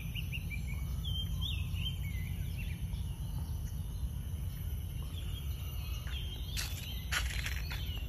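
Birds calling, a quick run of short swooping chirps in the first couple of seconds, over a steady low rumble. A few sharp clicks or rustles come near the end.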